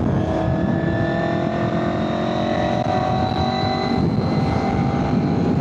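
A 2001 Honda VFR800FI Interceptor's V4 engine running under way, its pitch climbing slowly, then changing about four seconds in. Heavy wind buffeting on the microphone rumbles under it throughout.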